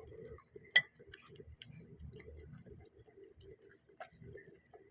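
Close-miked chewing of noodles with soft, irregular mouth noises. A single sharp clink, like a utensil against a bowl, comes about a second in and is the loudest sound.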